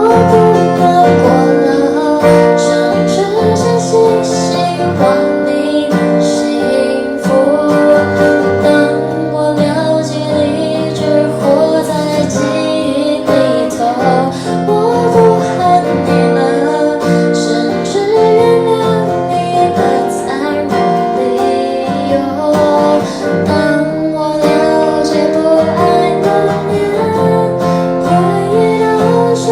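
A woman singing a slow song with acoustic guitar accompaniment, the guitar strummed and plucked under the voice.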